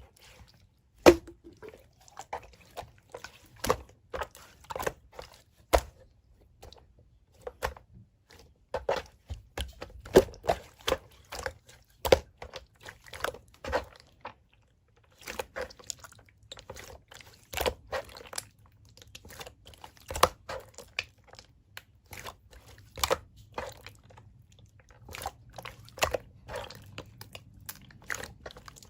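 Slime being squished and poked by hand: irregular sticky clicks, crackles and small pops, in uneven clusters with short pauses between.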